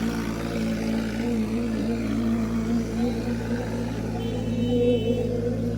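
Diesel tractor engines running hard under load as the tractors pull against each other in a tug-of-war, a steady low drone whose pitch wavers slightly.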